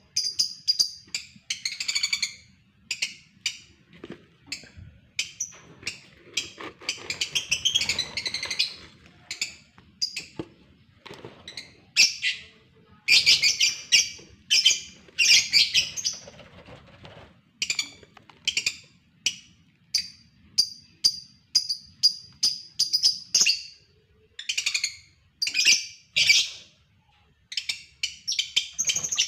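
Lovebirds calling in short, shrill chirps, sometimes run together into longer harsh bursts and at other times in quick strings of brief chirps.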